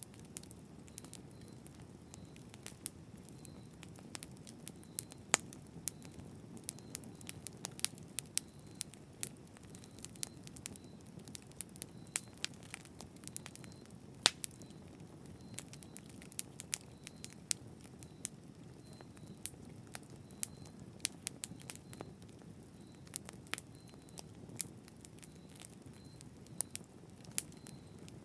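Campfire burning, with a steady low rush under frequent sharp, irregular crackles and pops.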